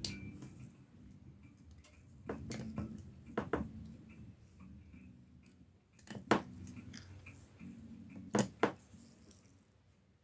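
Scattered sharp clicks and knocks of small hard objects being handled, about six of them with two close together near the end, over a faint low hum.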